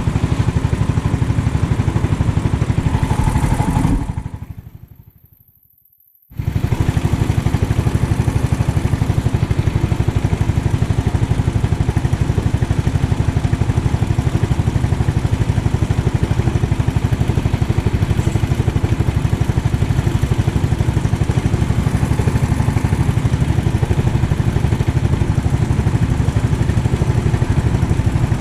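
390cc kart engine running steadily under way. About four seconds in, the engine sound fades away to near silence, then cuts back in abruptly about two seconds later: a dropout in the recording.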